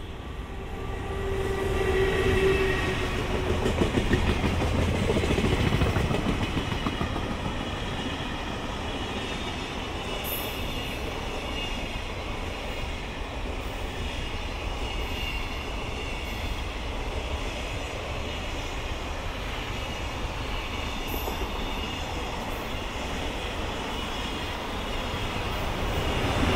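JR Freight EF210 electric locomotive hauling a container freight train passes close by, loudest in the first few seconds. A long line of container wagons follows, rumbling and clattering steadily over the rails.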